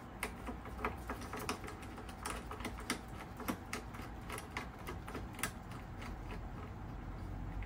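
Light, irregular clicking and tapping of small metal parts being handled, as the valves are taken out of the car's air-conditioning service ports.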